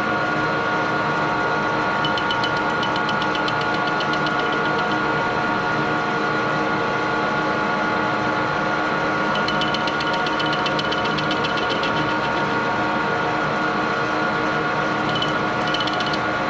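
Metal lathe running steadily with a constant machine whine, taking a facing cut on the end of a fuel mixer casting held in a four-jaw chuck. Patches of fast ticking come and go, about two seconds in, around ten seconds in and near the end.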